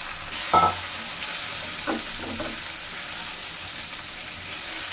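Oil sizzling in a pan as pre-fried chicken pieces go in with frying onions and capsicum. A sharp clatter comes about half a second in, and two lighter knocks follow around two seconds.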